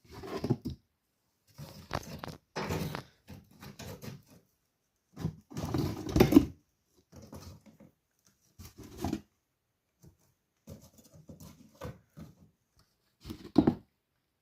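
Irregular bursts of paper tissue being rustled, crumpled and torn by hand to serve as kindling for a wood fire, with short silent gaps between them and a louder crumple about six seconds in and another near the end.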